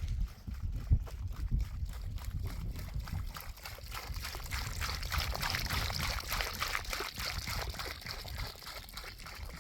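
Water pouring and sloshing, with many short clicks over a low rumble.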